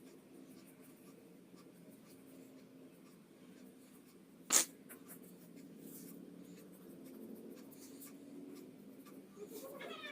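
Pencil scratching on paper in faint strokes while a drawing is sketched, with one sharp click about four and a half seconds in.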